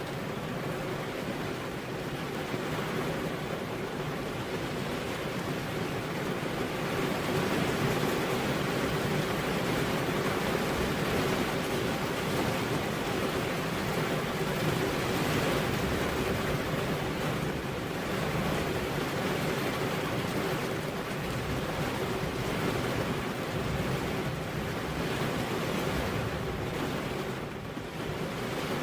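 Steady rain falling, a continuous even hiss with gentle swells in level.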